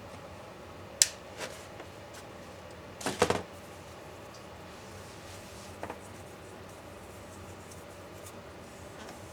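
Sharp clicks and light knocks of small tools and plastic laptop parts being handled. There is one sharp click about a second in and a quick cluster of clicks and rattles around three seconds in, the loudest part. A faint double tap comes near six seconds, over a low steady room hum.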